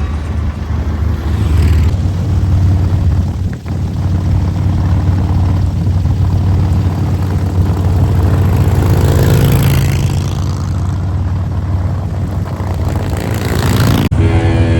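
Harley-Davidson motorcycle engine running while riding, a deep steady rumble mixed with wind and road noise. It dips briefly about three and a half seconds in and changes abruptly near the end.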